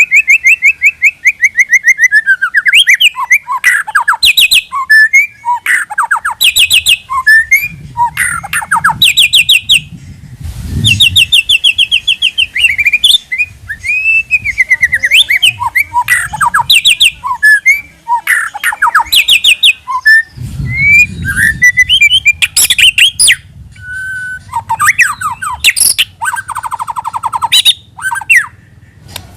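White-rumped shama singing: a loud, varied song of rapid trills, gliding whistles and short sharp notes in quick succession, with brief pauses between phrases.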